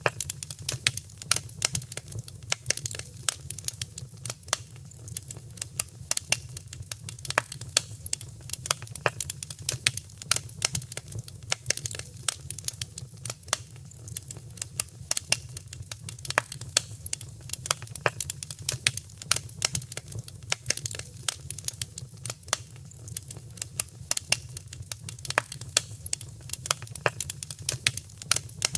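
Wood fire crackling in a fireplace: many sharp, irregular pops and snaps over a low, steady rumble of the flames.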